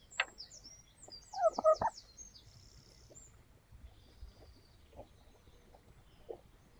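A hen's short calls about one and a half seconds in, the loudest sound, amid scattered taps and knocks, with rapid high chirping over the first three seconds.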